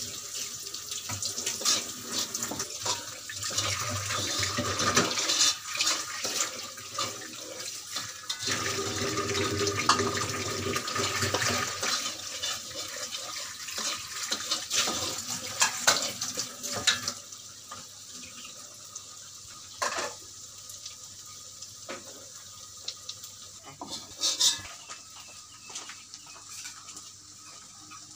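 Fried rice sizzling in a wok while a metal spatula scrapes and taps against the pan. The stirring and sizzle are busier and louder for about two-thirds of the time, then settle to a quieter hiss with occasional taps.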